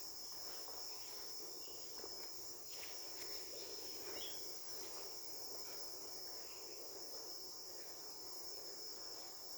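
A steady, high-pitched chorus of insects, such as crickets, trilling continuously with no break.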